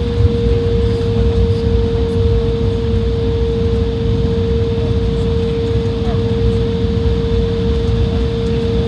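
Jet airliner cabin noise: the engines run with a steady whine over a heavy low rumble and the rush of air.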